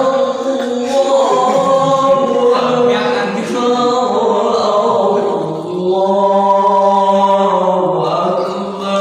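Voices singing together, a chant-like melody with long held notes.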